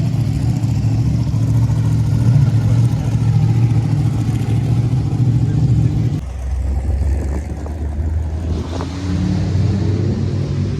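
A car engine running loudly and steadily. About six seconds in its note drops to a deeper rumble, then it picks up again with a rising pitch near nine seconds.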